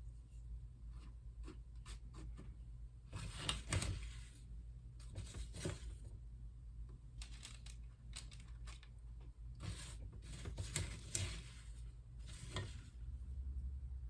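Crisp chow mein noodles coated in melted butterscotch and peanut butter crackling and rustling as they are scooped and pressed into nest shapes on parchment paper. The noise comes in four short bursts with small clicks between them, over a low steady hum.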